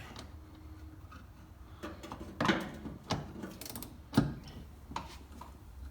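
Scattered knocks and clicks of a part being fitted back on inside a car, at an irregular pace, the sharpest knock about four seconds in.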